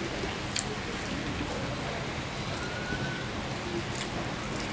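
Steady rain falling, an even hiss, with a couple of short sharp clicks over it, about half a second in and near the end.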